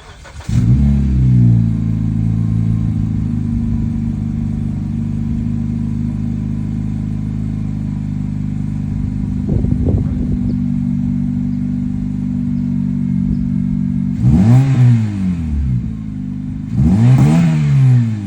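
2012 Honda Civic's 1.8-litre four-cylinder running through an aftermarket exhaust. It comes in about half a second in and idles steadily, with a small blip of the throttle near the middle. Near the end come two quick revs, each rising and falling back to idle.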